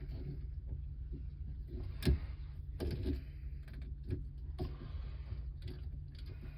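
Scattered knocks, clicks and rustles of hands working electrical cable and metal fittings into a water heater's junction box, the sharpest knock about two seconds in, over a steady low hum.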